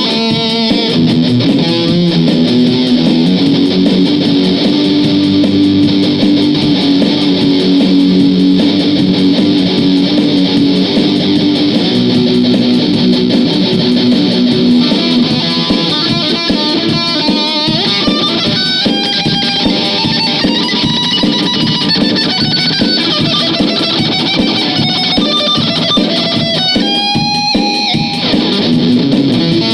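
Guitar playing riffs and licks. Held low notes ring through the first half, then higher single-note lead lines take over, with quick runs and bent notes near the end.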